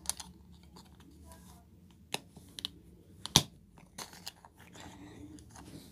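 Plastic Lego pieces clicking and knocking as they are handled and pressed together: a few sharp separate clicks, the loudest about three and a half seconds in.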